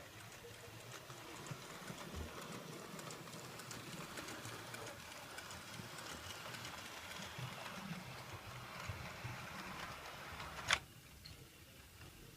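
A train clattering along the rails, a faint steady rattle of many small clicks. A single sharp click comes near the end, after which the rattle is quieter.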